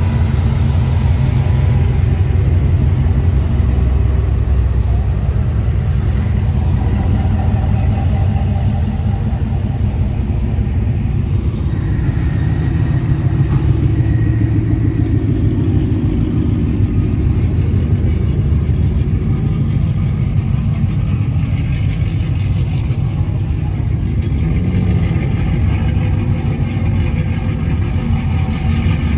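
Car engine running steadily and loudly, a low exhaust rumble with fine regular pulsing.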